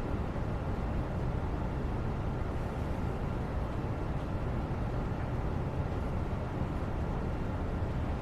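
Steady low rumbling background noise, with no distinct sounds standing out of it.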